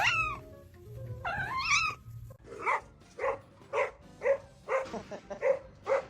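A pet's calls: two wavering cries that bend up and down in pitch, then a steady run of about seven short calls, roughly two a second.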